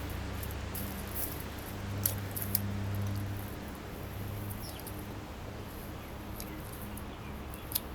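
Small rustles and sharp little clicks of plastic bird netting and ribbon being handled and tied onto garden stakes, over a low steady hum.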